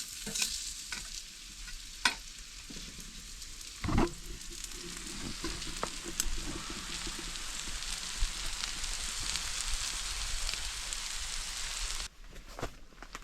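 Food sizzling in a frying pan, a steady hiss that builds over the first few seconds, with a few sharp knocks. The sizzle cuts off suddenly near the end.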